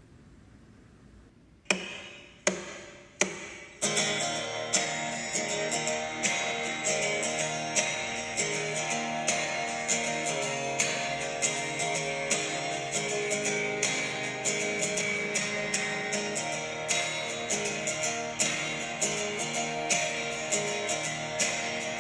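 Instrumental acoustic guitar song intro: after a quiet second or so, three single strummed chords ring out, then steady strummed guitar plays on with no singing.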